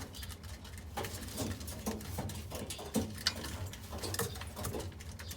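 Pigeons pecking at feed, making irregular light taps and clicks, with a steady low hum underneath.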